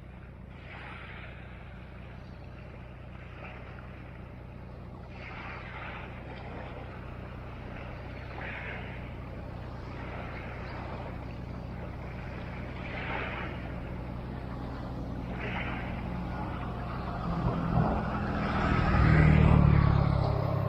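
A motor vehicle's engine running steadily, with a louder vehicle passing near the end.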